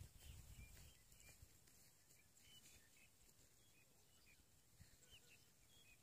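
Near silence, with faint, scattered high chirps of small birds, several a second, and a low rumble in the first second.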